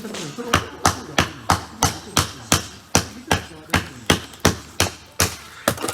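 A rapid, regular series of sharp knocks, about three strikes a second, like steady hammering or chopping.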